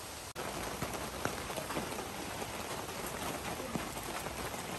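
Rain falling steadily, with many small drop hits scattered through it.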